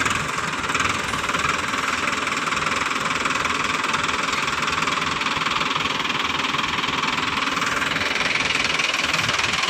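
Diesel engine running steadily with a clattering knock.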